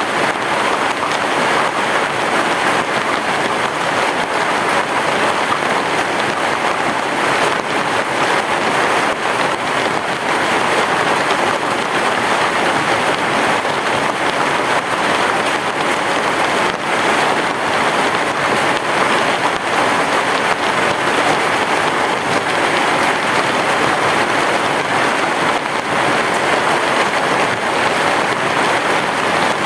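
Heavy rain pouring steadily on a roof, a dense, even hiss that holds at the same level throughout, with no thunder.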